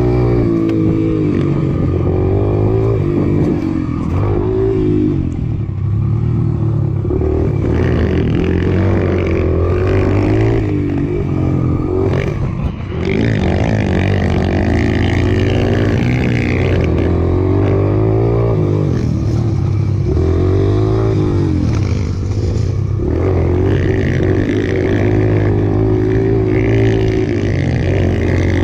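Mini motorcycle engine running, its pitch rising and falling again and again as it is revved and let off.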